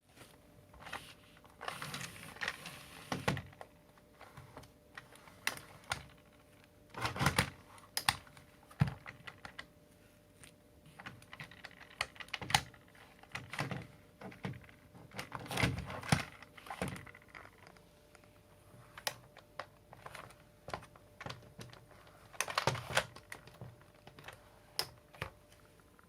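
Irregular clicks, knocks and light rattles of hard plastic parts being handled and fitted together, coming in several clusters with quieter gaps between. The vacuum's motor is not running.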